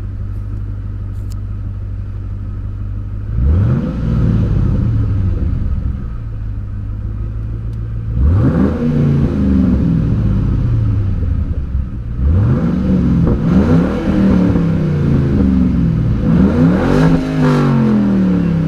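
2005–2009 Ford Mustang GT's 4.6-litre V8 through a Roush Extreme Performance catback exhaust, heard from the cabin with the door open: idling, then revved once about three seconds in, again in a cluster about eight seconds in, and in a run of quick throttle blips from about twelve seconds, the highest rev near the end, each rising and then falling back to idle. The exhaust sounds deep and pretty loud.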